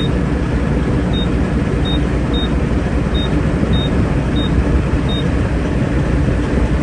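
Fuel pump keypad beeping once for each key pressed, about eight short high beeps at uneven intervals as a phone number is entered, over the steady low rumble of idling truck engines.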